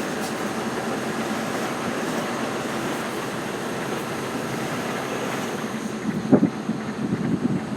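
Articulated lorry's diesel engine running steadily during a slow reversing manoeuvre, with a few louder knocks near the end.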